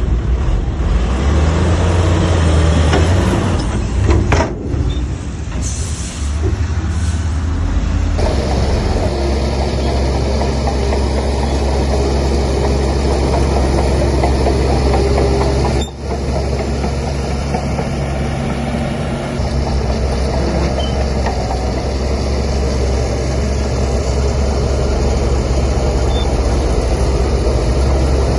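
Heavy diesel earthmoving machinery running steadily under load, with a deep engine hum throughout. The sound shifts abruptly about eight seconds in and cuts out for a moment near sixteen seconds.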